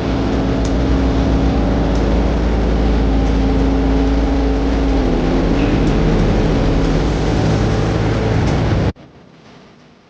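Heavy diesel construction machinery running steadily, a deep engine hum with a held tone above it. It cuts off abruptly about nine seconds in, leaving a much quieter background.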